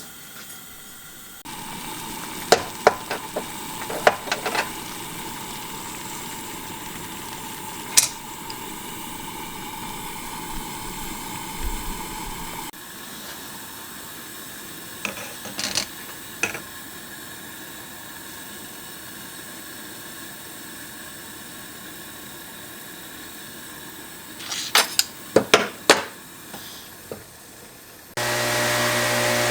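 Pressurised Coleman camp stove burning with a steady hiss under a pot of water, with occasional sharp clinks of metal parts against the pot. Near the end a power tool starts running with a steady hum.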